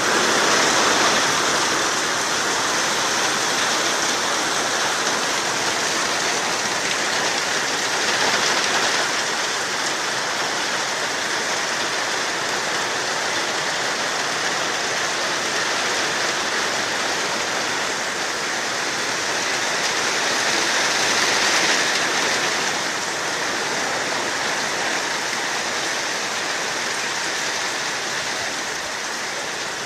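Steady heavy rain falling, a dense even hiss that swells slightly twice.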